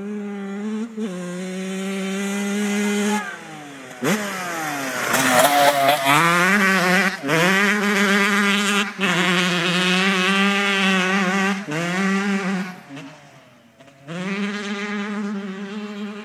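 Yamaha YZ125 two-stroke single-cylinder engine running at high revs. The pitch wavers with the throttle, falls and then climbs steeply again about four seconds in, and dips away briefly near the end before picking up again.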